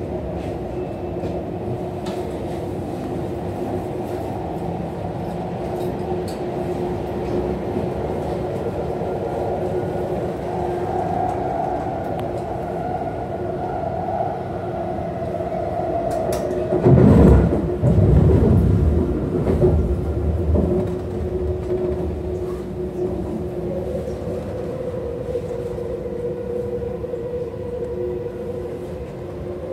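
Cabin noise of an eight-car West Rail Line electric train running at speed: a steady rumble of wheels on rail with a constant hum. About two-thirds of the way through, a louder rushing rumble swells for about four seconds, then settles back.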